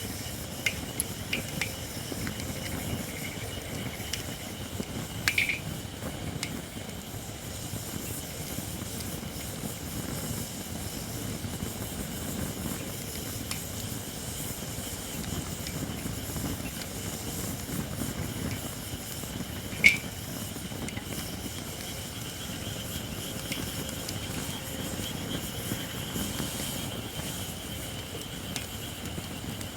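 Japanese white oak (shirakashi) firewood burning in a campfire: a steady low rush of flame with a few scattered crackles and pops, the sharpest about 20 seconds in. Over it runs a steady hiss from the wood, which is not yet dry enough.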